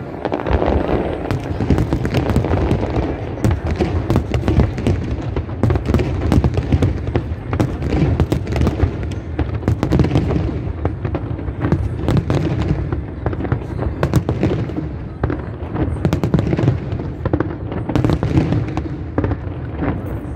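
Aerial fireworks display at full intensity: many sharp bangs and pops of bursting shells in quick succession, over a continuous low rumble of booms.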